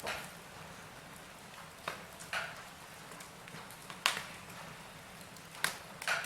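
Wood fire crackling in a fireplace: a steady low hiss with sharp pops every second or two, the loudest about four seconds in.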